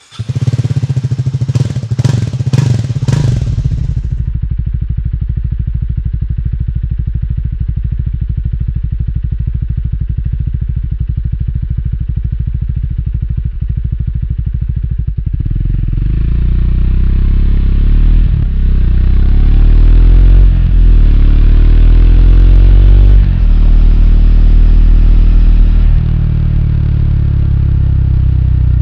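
Triumph Speed 400's single-cylinder engine idling steadily, then pulling away about halfway through and accelerating through several gears, the pitch climbing and dropping at each shift.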